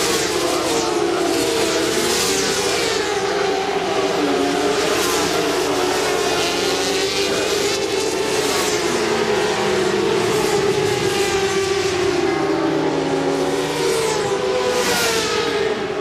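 A pack of 400 cc supersport racing motorcycles at high revs, several engine notes rising and falling together as they shift and brake. Bikes pass close by again and again.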